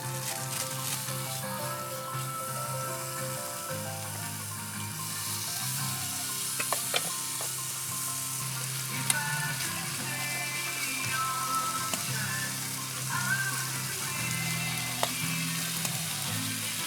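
Food sizzling as it fries in a pan, a steady hiss with a few sharp clicks of utensils, over soft background music.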